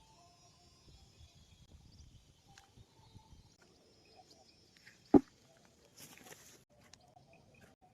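A digging tool strikes the soil once, a sharp knock about five seconds in, followed a second later by a short scraping rustle of earth. Faint insect and bird calls run underneath.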